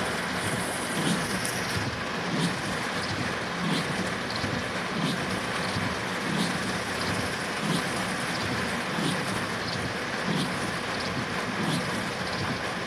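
Steady rushing noise of heavy rain and water around a vehicle on a flooded road, with a soft swish repeating about every 1.3 seconds.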